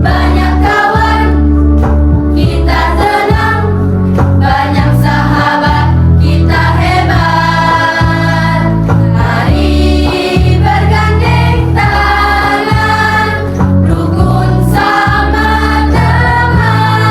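Junior high school choir singing in unison and harmony over an instrumental accompaniment with a strong, sustained bass line.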